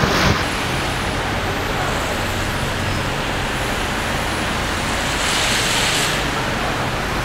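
Steady street traffic on a snowy city boulevard: car engines running and tyres on the snow, with a louder hiss from a passing vehicle about five seconds in.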